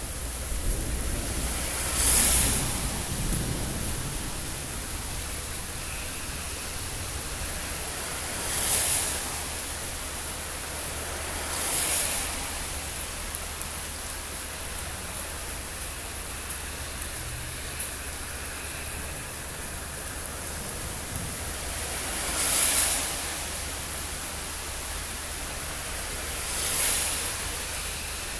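Steady hiss of heavy rain in a thunderstorm, with a whooshing swell that rises and fades five times, and a low rumble in the first few seconds.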